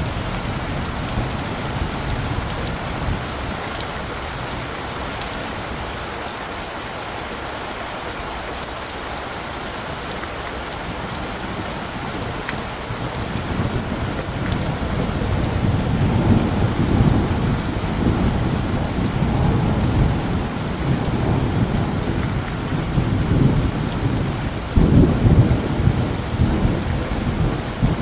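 Steady rain falling on a forest, with low rolls of distant thunder rumbling in about halfway through and a louder roll near the end.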